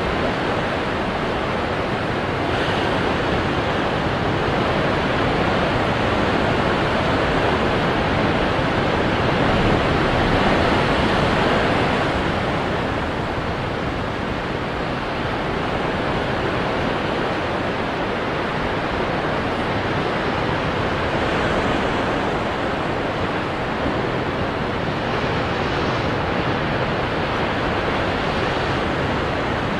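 Ocean waves breaking onto rocks, a continuous rush of surf that swells and eases, loudest about ten seconds in.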